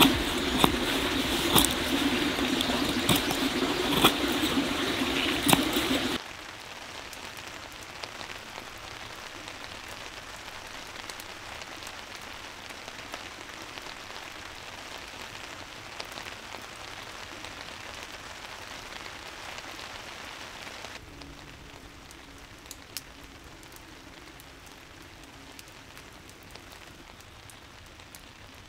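Rain falling with scattered drops ticking; loud and close at first, then cutting suddenly to quieter steady rain about six seconds in, with a further drop in level about twenty seconds later.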